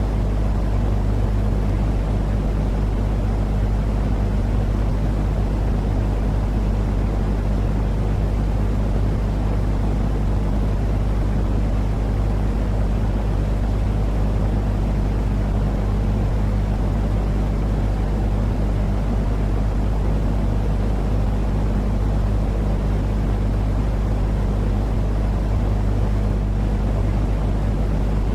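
Steady, unchanging white-noise track for baby sleep: a deep, rumbling hiss that is heaviest in the bass, with a faint steady low hum under it.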